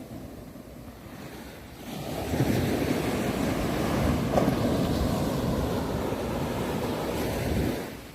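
Sea waves: a low steady wash, then a wave surges in about two seconds in, runs up loudly for several seconds and drains away near the end.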